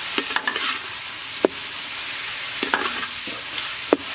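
Ground pork and chopped aromatics frying in oil in a pan, a steady sizzle, while a metal spatula stirs them, scraping and knocking sharply against the pan a few times.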